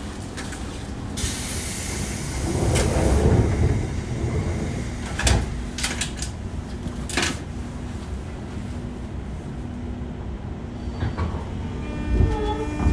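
Inside a JR West 201-series commuter car at a station stop: the doors close with a hiss of air, followed by several sharp clunks. Near the end a steady electric whine from the thyristor chopper control starts up as the motors take power to pull away.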